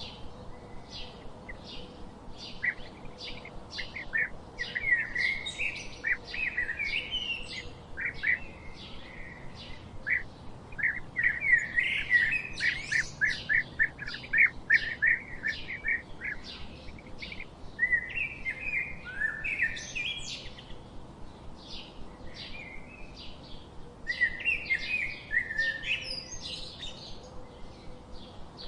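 Small birds chirping and twittering: a steady series of short high chirps, with runs of rapid notes at about 5, 11 to 16, 18 to 20 and 24 to 27 seconds.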